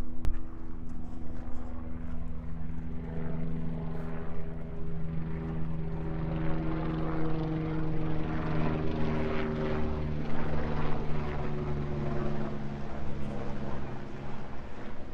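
Aircraft flying over: a steady engine drone with several held tones that slide slowly down in pitch as it passes.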